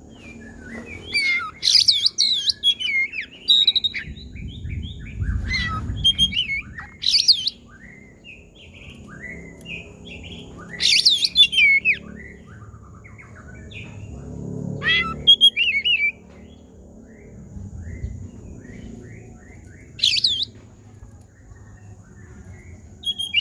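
Oriental magpie-robin singing. Loud swooping, mewing notes come every few seconds, about six times, between runs of quick, short falling chirps. The bird's calls are taken for an imitation of a cat's meow.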